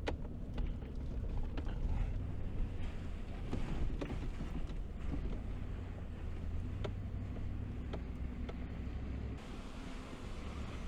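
Truck driving slowly over a rough, washed-out dirt trail: a steady low rumble of engine and tyres, with scattered knocks and rattles as it bumps over the ruts.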